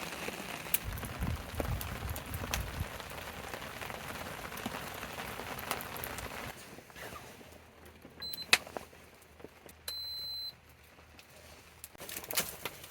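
Steady rain with gusts of wind rumbling low in the first few seconds. About halfway the rain noise drops away, and two short high electronic beeps follow, the second a little longer.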